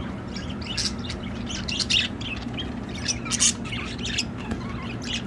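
Budgerigars chirping and squawking, many short high calls overlapping in quick, irregular succession.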